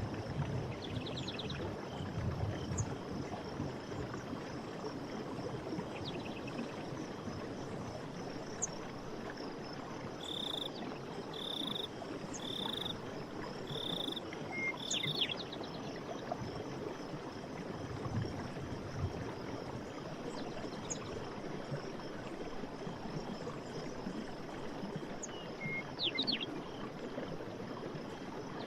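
Steady rush of a running forest stream, with birds calling over it: a short trill about a second in, a run of five evenly spaced notes about a second apart in the middle, and scattered high chirps.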